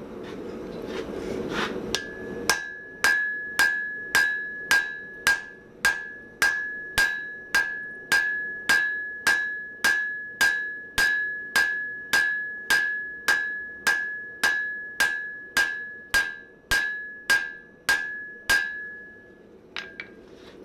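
Hand hammer striking hot mild steel on an anvil while drawing out a shovel blank: a steady run of blows, a bit under two a second, each leaving a high ring, ending with a couple of light taps near the end.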